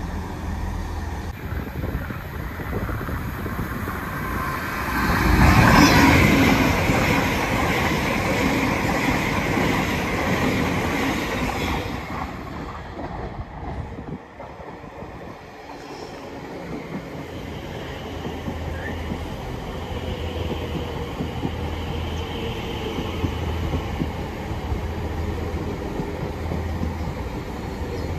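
Passenger trains at a station platform. Train noise swells loudly about five to six seconds in. After an abrupt break, an electric multiple unit runs along the platform, with a faint high whine partway through.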